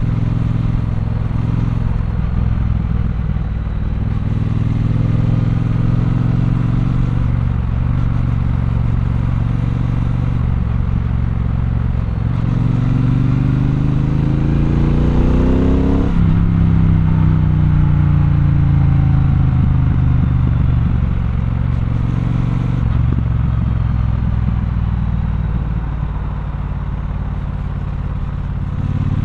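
Triumph Bonneville Bobber's 1200 cc parallel-twin engine under way, the revs rising and falling as it changes gear. About halfway through it revs steadily up for a few seconds, then drops sharply as the throttle closes and winds down again.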